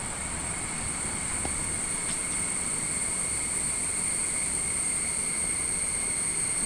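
Forest ambience: a steady high-pitched insect drone over a low rushing noise.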